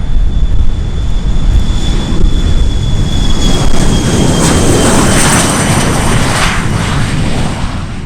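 Embraer E-99's twin turbofan jet engines passing close and loud: a high steady whine that drops slightly in pitch about three seconds in, over a deep rumble. The noise swells in the middle, then fades near the end.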